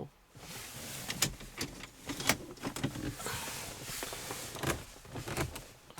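Plastic pop-out cup holder in a BMW 323i coupe's dashboard being worked in and out: repeated clicks and knocks over a steady scraping rustle. The mechanism appears to be sticking.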